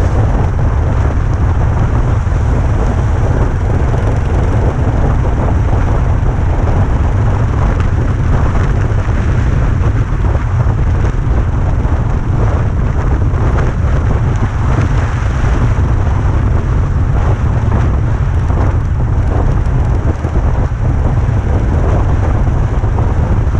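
Steady, heavy wind rumble on the microphone from a moving bike, with road noise and no clear engine note.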